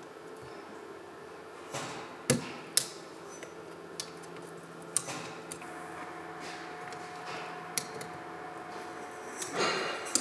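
Scattered sharp taps and knocks, a handful of them, over a steady low hum, with a short scraping or rustling sound near the end.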